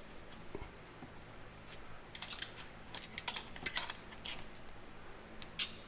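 Light, irregular metallic clicks and clinks of tractor PTO parts and hand tools being handled while a shaft is worked out of its housing, clustered in the middle with a couple more near the end.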